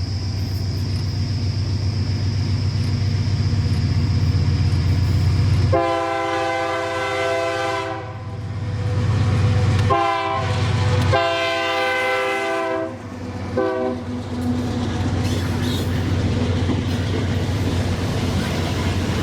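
Diesel freight locomotive passing with its engine rumbling, then its horn sounding a long blast, a short one, another long one and a short one, starting about six seconds in. After the horn the freight wagons roll by with a steady rumble and wheel clatter.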